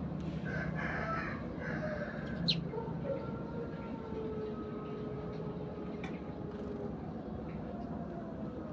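A rooster crowing: one long, drawn-out crow whose pitch slides slowly down over several seconds. A few short, sharp sparrow chirps come through, one clearly about two and a half seconds in.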